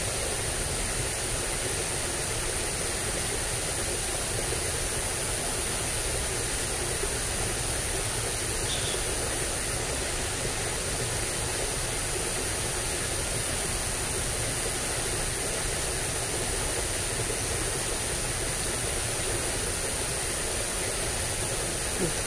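Steady rushing noise of flowing water, with a continuous high-pitched whine over it.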